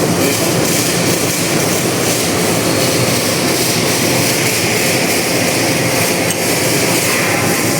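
Steady, loud machine noise with a constant low hum, unchanging throughout.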